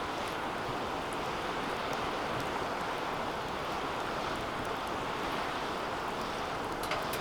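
Wood fire burning steadily in a DOD Mecha Moe Fire 2 fire pit: a continuous rushing flame noise with scattered small crackles, and one sharper click near the end.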